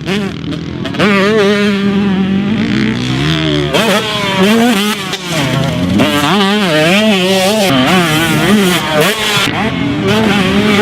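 Husqvarna TC125's 125cc two-stroke single-cylinder engine ridden hard, its pitch swinging rapidly up and down with repeated throttle blips and brief let-offs.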